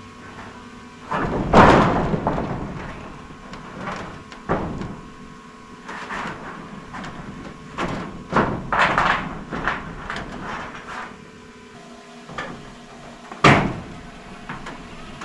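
Irregular knocks and bangs from roof panels being handled and moved, loudest about a second and a half in and again near the end, with a cluster of clatter in the middle, over a faint steady hum.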